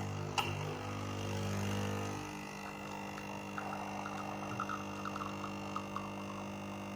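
A Nespresso coffee machine hums as it pours an espresso shot and stops about two seconds in. Under it, an Aeroccino milk frother whirs steadily as it whisks the milk, with faint crackling in the middle.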